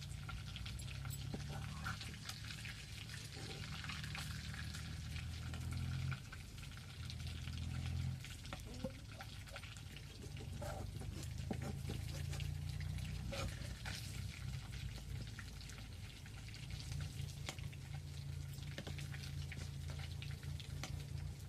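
Food frying in hot oil in a pan, a steady sizzle with many small crackles, over a steady low rumble.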